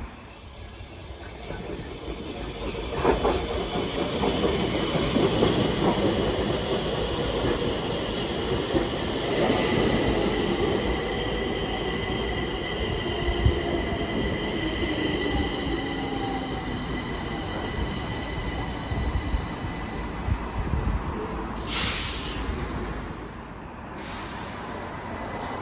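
Stockholm Metro train running on the rails with steady high-pitched wheel squeal and a whine that slowly falls in pitch. A short hiss comes near the end.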